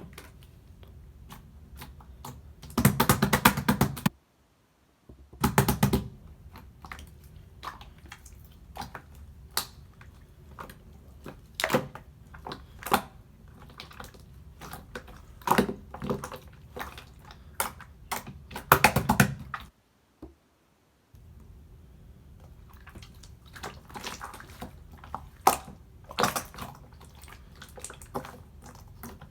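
Slime being squeezed and stretched by hand: a steady stream of small sticky clicks and pops, with four louder bursts of dense crackling squelches. The sound cuts out twice, briefly.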